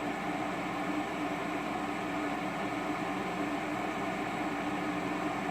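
Electric kettle boiling: a steady, unbroken sound of water at the boil.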